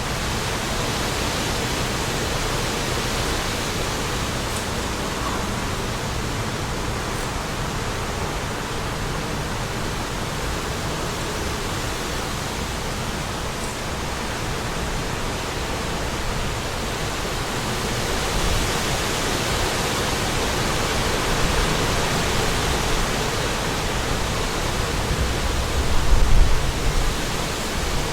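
Wind blowing in a steady rush, swelling a little in the second half. Near the end, gusts buffet the microphone with low rumbling surges.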